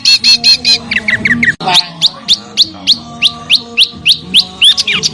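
Small songbird song from a compiled training recording: quick repeated high notes, then, after an abrupt cut about a second and a half in, a series of sharp falling notes about three a second that come faster near the end.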